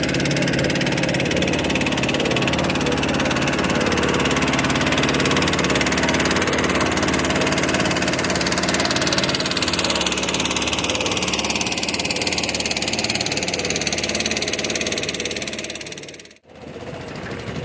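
Small fishing boat's engine running steadily, fading out near the end.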